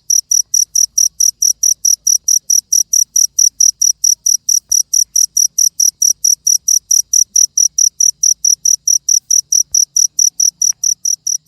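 A cricket chirping in a fast, even rhythm of about five high-pitched pulses a second.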